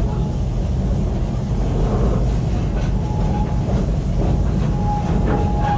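Open-air park train running, heard on board: a steady low rumble of the cars rolling over the track with a few faint clicks. A thin, steady high tone comes and goes from about three seconds in.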